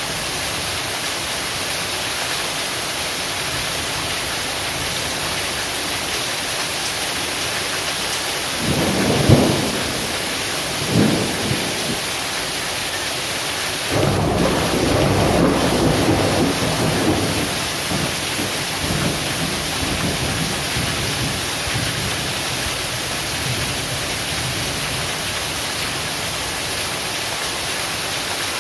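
Heavy rain falling steadily, with thunder: a sharp clap about nine seconds in, a shorter one about eleven seconds in, and a longer rumble starting about fourteen seconds in that fades over several seconds.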